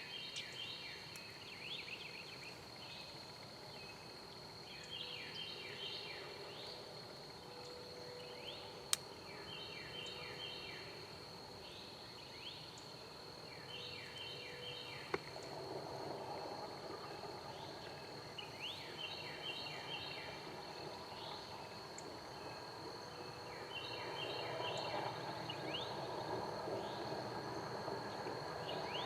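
Woodland morning ambience: songbirds singing short phrases of quick falling notes every few seconds over a steady high insect-like whine. Two sharp clicks stand out, and a soft low rustle rises about halfway through.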